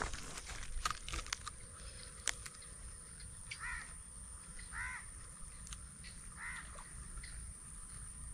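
A bird calling three times outdoors, short harsh calls a second or more apart in the middle of the stretch, over a steady low rumble; a few sharp clicks come in the first couple of seconds.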